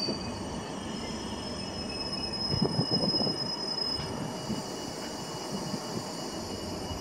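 Passenger coaches of a long PKP Intercity express rolling slowly past while braking to a stop: a steady low rumble of wheels on rail, a faint high brake squeal that fades out about four seconds in, and a few light clunks around three seconds in.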